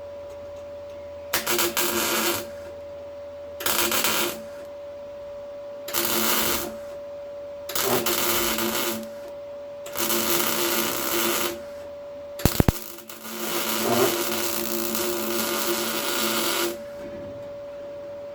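MIG welder laying short stitch welds on steel car-body panel. There are six bursts of crackling arc, most about a second long and the last nearly four seconds, with a sharp click or two between the last two, over a steady hum.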